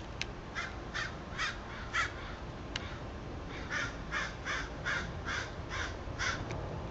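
A crow cawing in two quick runs of calls, about four caws and then about eight, two or three a second. A few short, sharp, high notes fall between the runs.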